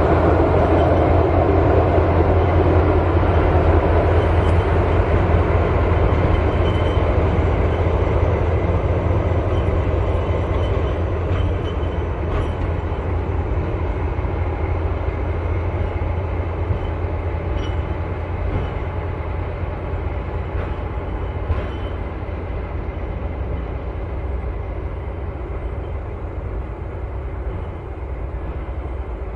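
Passenger train passing on the tracks: a steady rumble and rush of wheels on rails that slowly fades as it draws away.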